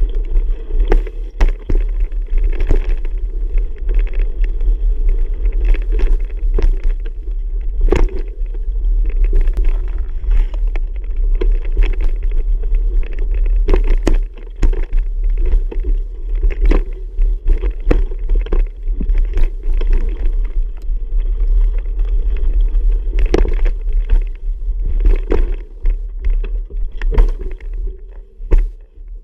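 Wind rumbling on the microphone during a bicycle ride, with frequent irregular knocks and rattles from riding over rough ground.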